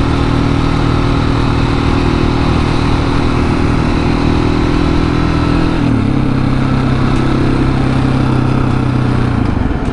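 Husqvarna 701 supermoto's single-cylinder engine running steadily under way, with wind noise on the microphone; about six seconds in the engine note steps down to a lower pitch and holds there.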